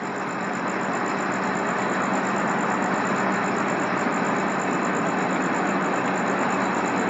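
Steady noise of a vehicle's engine running, growing a little louder in the first second and then holding even.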